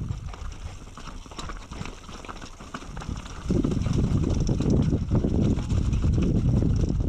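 Mountain bike riding over rough ground: a rattling, knocking rumble mixed with wind noise on the microphone, which gets much louder about three and a half seconds in.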